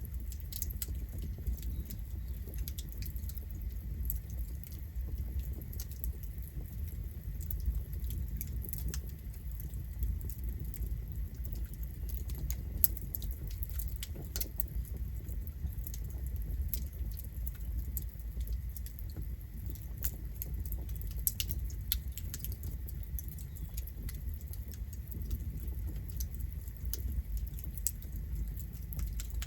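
Campfire burning: wood crackling and popping in many sharp, irregular snaps over a steady low rumble.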